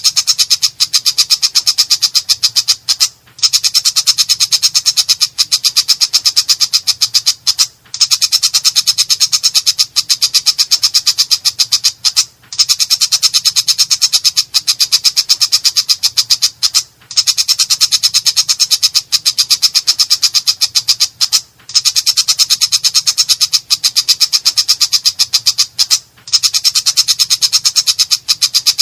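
Long-tailed shrike (cendet) singing harsh, rapid strings of repeated high notes. The strings come in bursts of about four and a half seconds with brief pauses between them, repeating very regularly.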